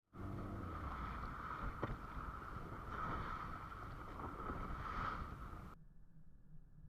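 Boat at sea in a strong wind, with wind rumbling heavily on the microphone and one sharp knock about two seconds in. It cuts off abruptly near the end, leaving only a faint low hum.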